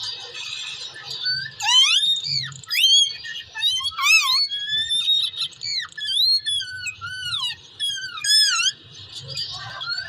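Ringneck parakeet giving a rapid string of high, squeaky whistled calls that swoop up and down in pitch, starting about a second in and stopping near the end.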